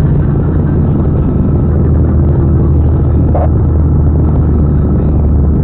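Steady low drone of a vehicle's engine and road noise, picked up by a dashcam microphone.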